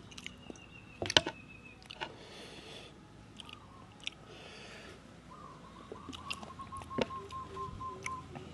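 Close-miked chewing of a mouthful of spicy seafood papaya salad (som tam), with wet mouth clicks and short crunches. A faint steady whistle-like tone comes in about halfway through.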